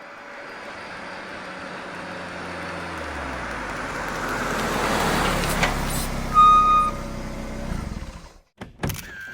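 Car engine growing louder as a limousine pulls up, with a short beep about two-thirds of the way in. The engine cuts off near the end, followed by a few sharp clicks.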